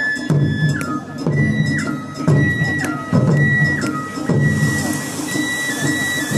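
Japanese festival music: a high bamboo flute plays a repeating phrase, each long held note stepping down, over drums in a steady rhythm. A high steady hiss joins about four and a half seconds in.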